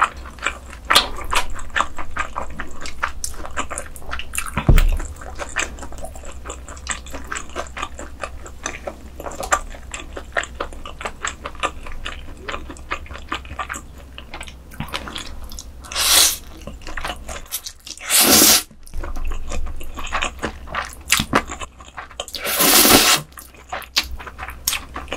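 Close-miked eating sounds: dense, rapid wet clicks and crunches of food being chewed. Three louder noisy swells, each under a second, come in the second half.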